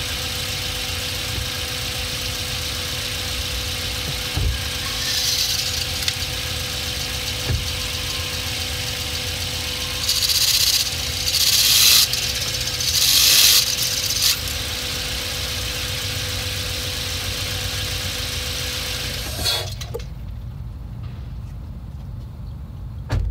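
2006 Hyundai Elantra's engine and clutch running as the car is eased forward, a steady whine over the engine drone with three louder, harsher bursts of noise about five, ten and thirteen seconds in; the noise comes from a clutch disc whose damper spring has failed and come loose. The whine and upper noise cut off abruptly near the end, leaving a low rumble.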